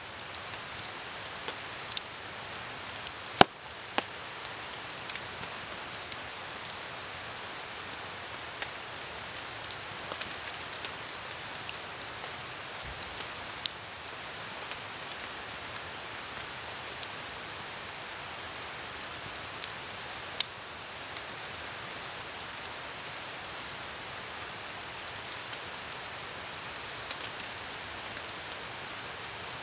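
Steady hiss of rain falling, with a campfire crackling: scattered sharp pops stand out from the rain, the loudest about three seconds in.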